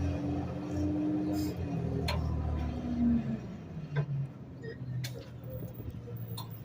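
Garbage truck engine running with a steady low hum and a held whine for the first three seconds, then quieter, with a few sharp clicks scattered through.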